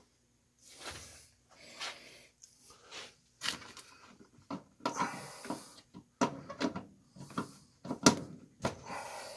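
Handling noises as a washing machine is plugged back in: irregular knocks, clicks and rustles, with a sharp click about eight seconds in.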